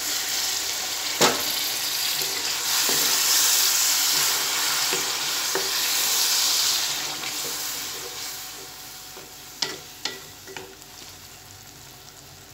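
Water poured into hot oil and masala with round gourds (tinda) in a metal karahi, sizzling and hissing hard, then settling to a softer simmer after about seven seconds. A wooden spatula stirs through it and knocks against the pan, sharply about a second in and a few lighter times near the end.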